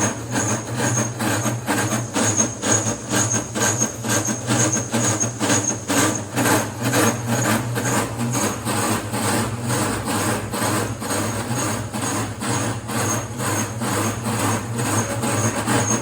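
Repeated sharp metal knocks, about three a second, over the steady hum of running machinery.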